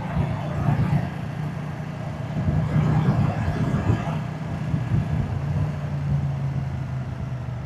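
Moto Guzzi motorcycle's V-twin engine and exhaust running steadily at low speed.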